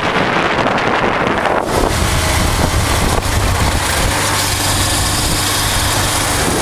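Honda Transalp's V-twin engine running steadily on the road, with wind buffeting the microphone over it.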